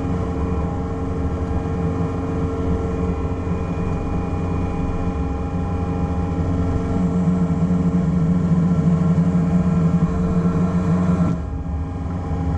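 Excavator's diesel engine running under load, loudest between about seven and eleven seconds in, then dropping off abruptly near the end.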